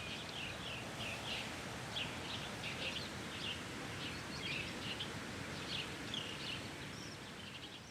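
Small birds chirping repeatedly in short, high calls over a steady outdoor background hiss.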